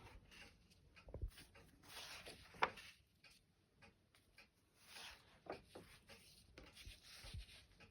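Faint rustling of paper pages as a book is leafed through and handled, with a few soft taps.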